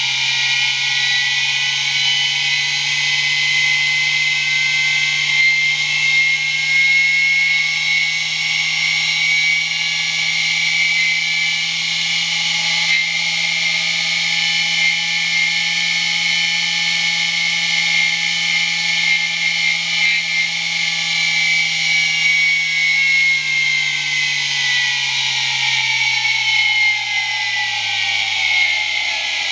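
Small electric motor with noisy ball bearings running at speed: a high whine with rough bearing noise. Its pitch creeps up slightly, then falls steadily over the last several seconds as the motor slows.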